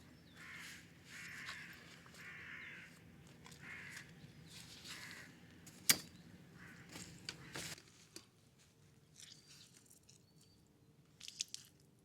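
A crow cawing repeatedly, about six harsh calls roughly a second apart, followed by a single sharp click, the loudest sound. The last few seconds are quieter, with a few faint ticks.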